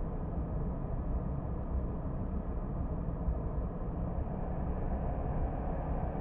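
Car driving along a road: a steady low rumble of engine and tyre noise, with a faint steady hum coming in near the end.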